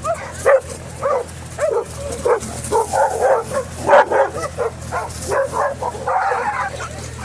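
Several dogs barking fiercely in rapid, overlapping barks and yips, with a denser burst of barking about six seconds in.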